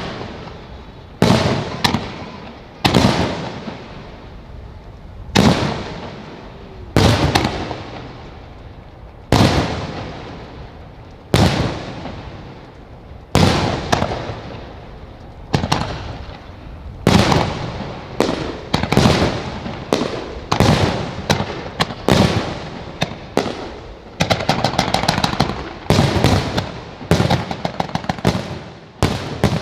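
Aerial firework shells bursting in a starmine finale barrage: loud booming bursts with echoing tails every second or two, coming faster in the second half, with strings of rapid crackling bangs near the end.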